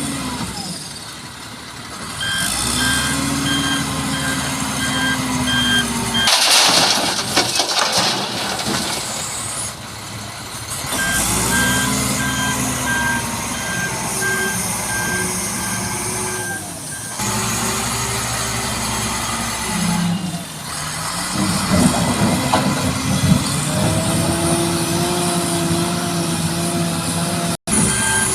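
Heavy truck engine revving up and settling back several times, with a reversing alarm beeping in two long runs and again near the end. About six seconds in there is a loud, brief hissing rush.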